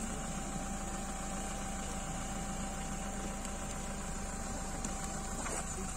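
Car engine idling steadily, a low hum that drops out near the end.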